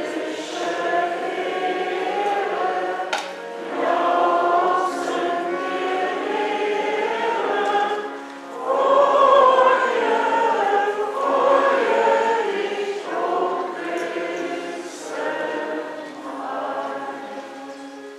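Choir singing a hymn in sung phrases with short pauses between them, fading away near the end.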